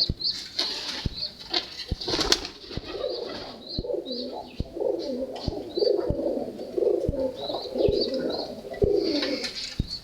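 Domestic pigeons cooing repeatedly, with short high chirps and scattered soft thumps mixed in. The cooing dies away near the end.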